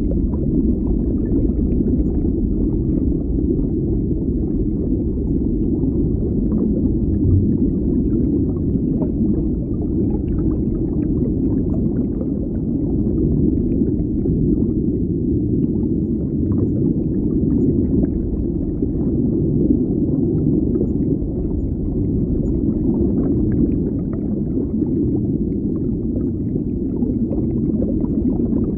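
Underwater ambience: a steady, dense low rumble with faint scattered crackles and bubbling above it.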